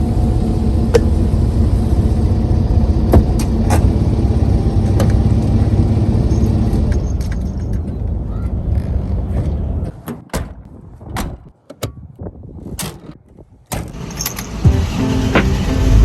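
Toyota Land Cruiser 60's engine running steadily, then cut off about ten seconds in, followed by a few scattered clicks and knocks.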